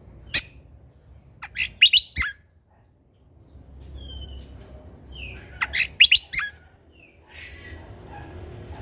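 Cucak kombo songbird singing in loud, sharp notes. A quick cluster of notes comes about two seconds in and another about six seconds in, with a few softer short whistles between.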